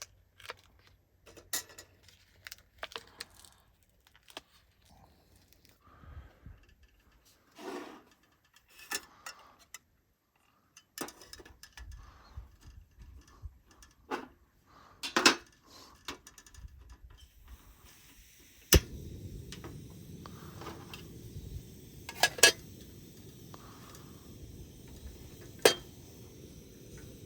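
Scattered clicks, clinks and knocks of small hard items such as dishes, utensils and camp gear being handled and set down. About two-thirds of the way in, a steady low rushing noise sets in beneath them.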